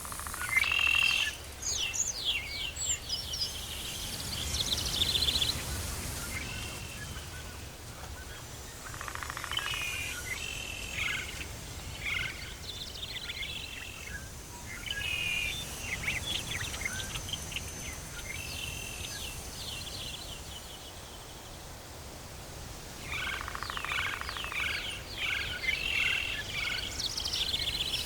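Tropical forest birds calling in quick repeated chirps and trills, coming in bouts with short lulls between them, over a steady low rumble of forest ambience.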